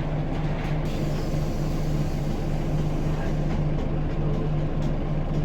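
Scania L94UB bus's diesel engine running steadily, a constant low hum with a regular pulsing drone.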